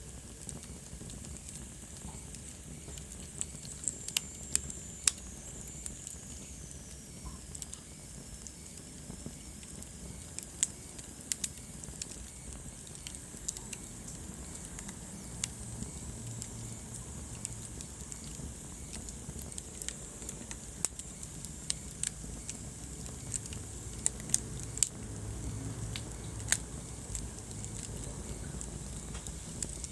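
Wood fire in a fireplace crackling, with sharp irregular pops over a low rumble of burning. A faint high whistle slides down in pitch between about four and eight seconds in.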